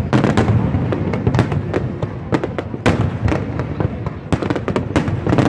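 Aerial fireworks display: shells bursting in quick succession, a rapid run of sharp bangs, about three a second, over a continuous low rumble.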